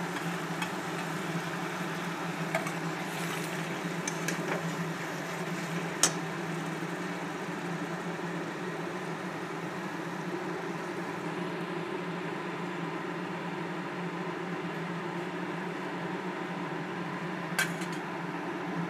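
Curd and masala cooking in a kadai under a steady kitchen hum and hiss, with two sharp clinks of a spatula against the pan, about six seconds in and near the end.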